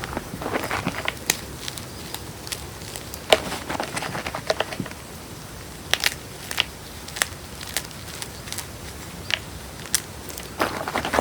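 Blocks of gym chalk being crushed by hand: irregular crunching, with sharp snaps as pieces break and short stretches of gritty crumbling.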